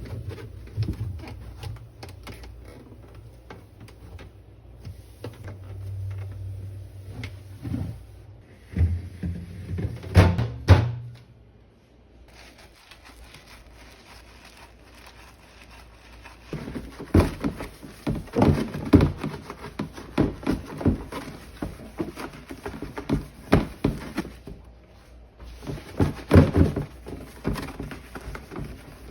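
Knocks, clunks and rattles of containers, shelves and drawers being handled while a refrigerator is cleaned out, with a low hum for the first ten seconds or so. About halfway through, the handling turns into busier, rapid clattering.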